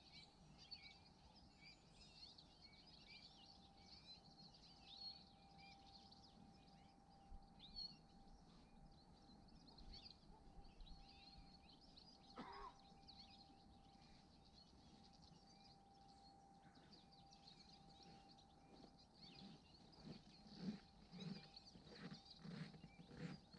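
Faint, many-voiced high twittering of small songbirds, with a faint steady tone through the middle and one short rising call about halfway. In the last few seconds a run of soft knocks comes about two a second.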